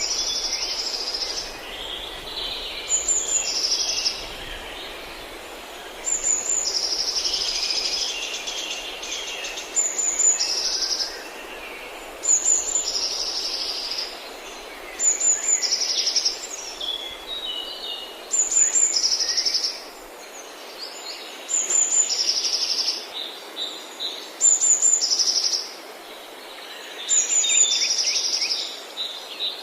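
Forest birds singing: one bird repeats a short phrase about every three seconds, a high note followed by a rapid trill, while other birds chirp more faintly, over a steady background hiss.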